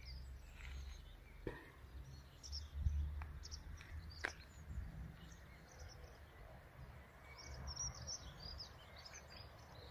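Small birds chirping faintly and on and off over a low steady rumble of outdoor background noise. There is a sharp click about a second and a half in and another about four seconds in.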